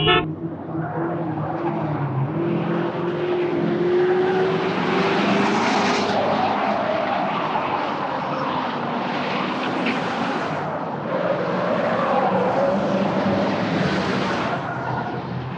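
Car engine revving up and down, with tyre skidding noise, as in a drift or chase.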